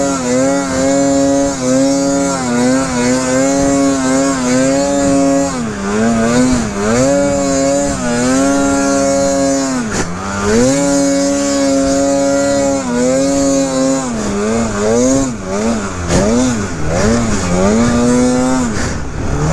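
Two-stroke snowmobile engine revving hard at high rpm. Its pitch is held steady, then drops and climbs back several times with the throttle, ending in a run of quick throttle blips.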